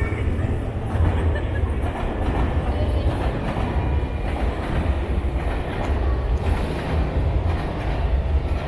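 A train running past, a steady heavy rumble with faint rhythmic rail clatter.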